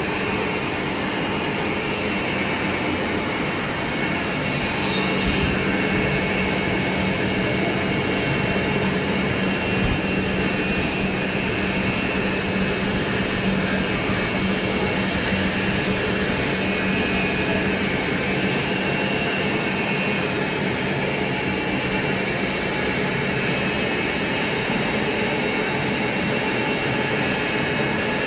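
Vertical turret lathe running steadily in a workshop, a continuous mechanical din. A steady low hum joins about five seconds in.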